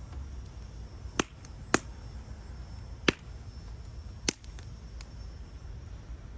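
Wood fire crackling, with four sharp pops spread over a few seconds above a steady low rumble.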